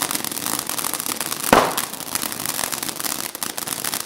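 Weco Laser fountain battery burning: a steady hissing spray of dense crackling pops, with one louder bang about a second and a half in.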